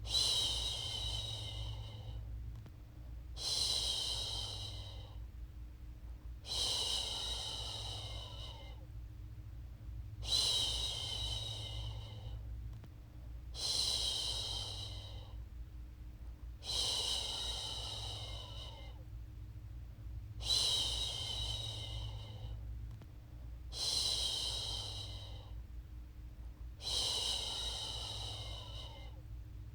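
A woman's voice shushing, "shhh", the soothing sleep-aid shush used to settle a baby. It repeats in even two-second shushes about every three seconds, over a steady low hum.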